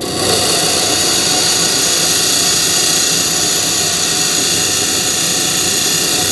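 A steel drill bit is pressed hard against a spinning grinding wheel, making a loud, steady grinding hiss that starts abruptly. The bit is being ground hot enough to turn bluish purple, which means it is overheating and losing its hardness.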